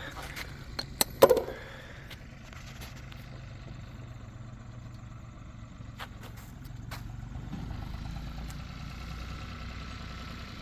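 A vehicle engine idling with a steady low hum. A few sharp clicks and one loud short sound come about a second in.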